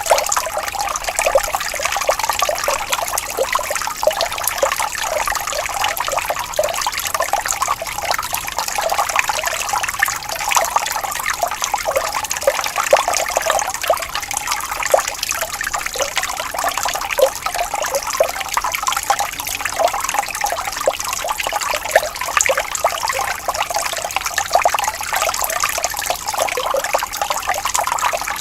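Water trickling and splashing steadily in a small stream, a continuous bubbling with many small splashes and nothing sitting low in pitch.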